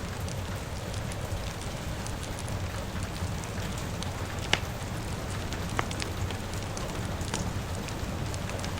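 Steady rain hiss mixed with a crackling fire, with scattered sharp pops, the loudest two about four and a half and six seconds in.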